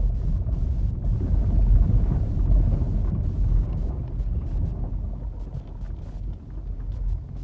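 Wind buffeting the microphone: a low, fluctuating rumble that eases a little toward the end.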